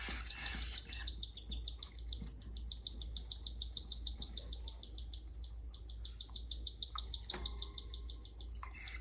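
Cockatiel chicks giving rapid, rhythmic high begging chirps, several calls a second, the sound they make while being fed by a parent. A single short knock about seven seconds in.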